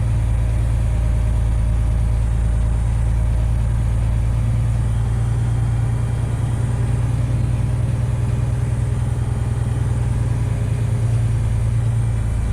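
Semi truck's diesel engine running with a steady, unchanging low drone.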